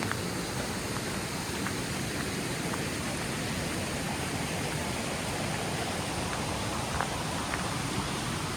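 Majestic Falls, a waterfall on McDowell Creek, rushing with a steady, even roar of falling water.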